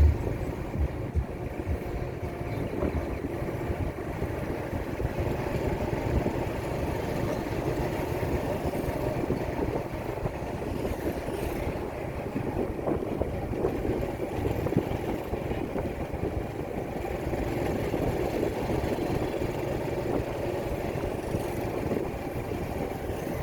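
Motorcycle on the move: steady engine and road noise.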